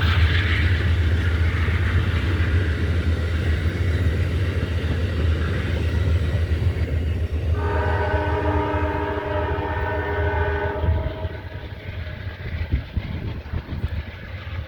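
Amtrak passenger train running out of the station with a heavy low rumble of locomotive and cars, which fades away about 11 seconds in. About 7.5 seconds in, the train's horn sounds one chord of several notes for about three seconds.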